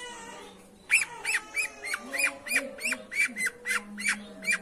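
Long-tailed shrike (pentet) giving a quick run of about a dozen short, harsh calls, about three a second, starting about a second in.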